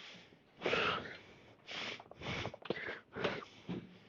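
A man breathing hard in short, forceful huffs, about one every half-second to second, as he works through a set of T-bar rows.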